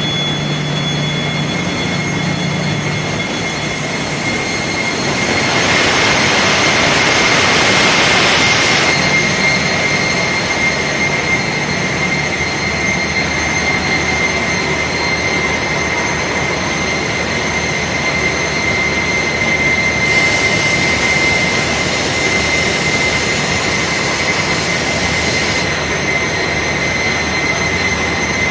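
Loud, steady din of engine-room machinery with a constant high whine. A louder hissing rush swells about five seconds in and drops away near nine seconds.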